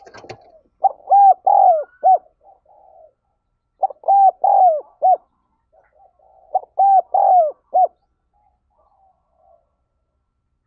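Spotted dove cooing: three phrases of four or five arched coos each, repeated about every three seconds.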